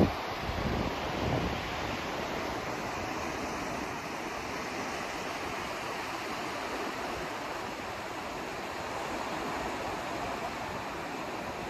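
Steady rushing hiss of white noise, even and unbroken, with no tone or rhythm; a brief louder surge right at the start.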